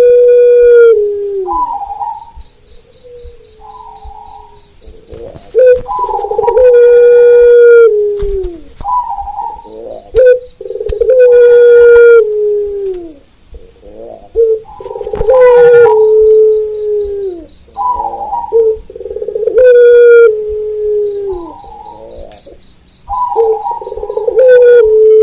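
Zebra doves (perkutut) cooing in repeated phrases about every four to five seconds, each ending in a long, falling note. Each phrase is overlapped by a second bird's high, rapidly pulsed call, over a faint, steady high pulsing chirr.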